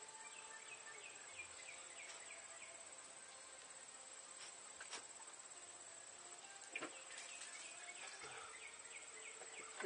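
Faint insects: a steady high-pitched buzz, with runs of short falling chirps about three a second near the start and again in the second half, and a couple of soft clicks.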